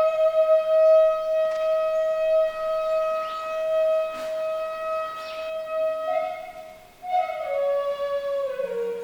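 Solo flute music: one long held note, then a few notes stepping down in pitch near the end.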